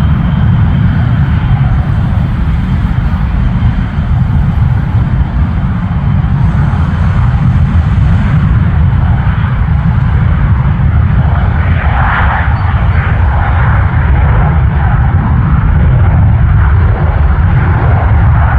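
Airplane engines running loud and steady with a heavy low rumble. A thin high whine fades out about four seconds in.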